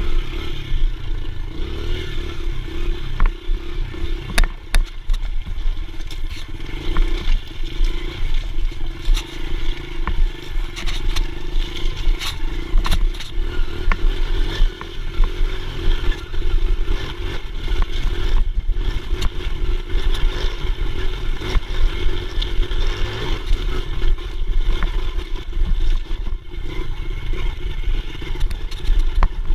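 Dirt bike engine running steadily, with a constant low rumble and scattered clattering knocks.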